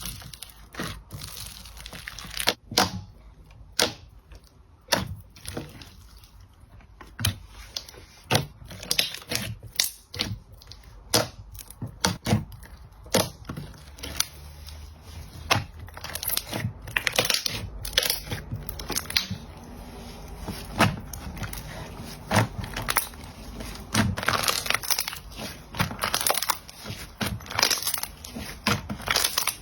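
Slime being pressed and squished, giving a dense, irregular run of sharp pops and crackles.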